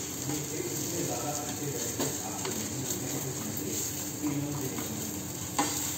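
A leftover-rice chilla frying in oil in a pan, with a steady sizzle, while a metal spatula scrapes under its edges and taps against the pan, the sharpest tap near the end.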